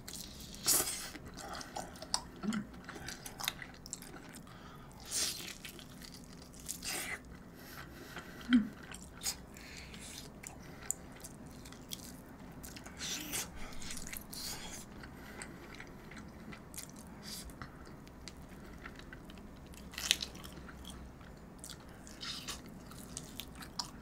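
A person biting and chewing meat off a large braised rib bone, close to the microphone: irregular wet clicks and smacks of the mouth.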